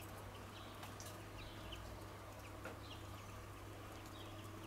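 Faint, short bird chirps, a few at a time, over a steady low hum.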